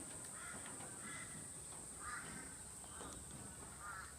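Faint, harsh caw-like bird calls repeating about once a second, over a steady high-pitched hiss.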